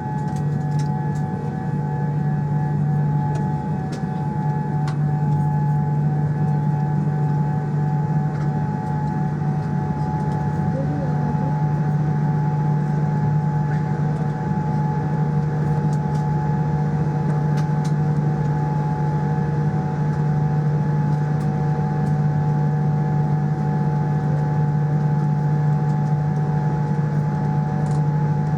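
Steady cabin drone inside a Boeing 787-9 airliner: a constant low hum with a couple of thin, steady whining tones above it.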